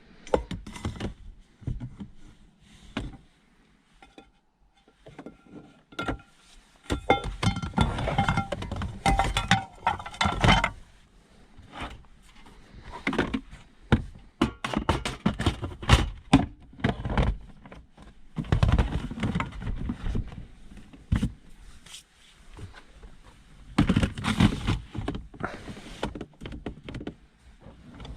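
Irregular knocks, thunks and light clattering of things being handled and set down inside a car, with a brief ringing tone among them about seven to ten seconds in.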